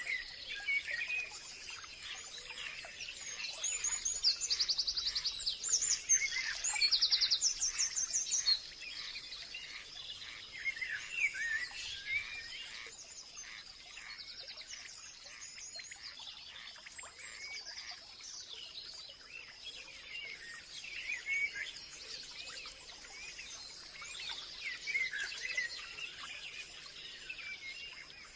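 A chorus of songbirds chirping and calling, with bursts of rapid trills about four to eight seconds in, over a steady high-pitched whine.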